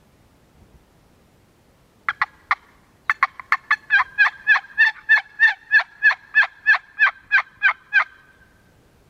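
A long run of loud, sharp turkey yelps. Three quick notes come about two seconds in, then after a short pause about twenty more follow at roughly three a second, growing louder and slightly slower before stopping about eight seconds in.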